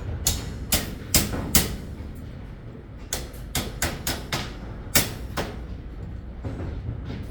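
Hammer strikes: about a dozen sharp knocks at uneven spacing, in two runs with a pause between them, over a low steady rumble.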